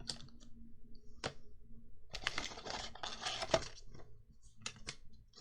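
Magic: The Gathering cards being handled and sorted: sharp card clicks and snaps, with a longer stretch of cards rustling and sliding against each other in the middle.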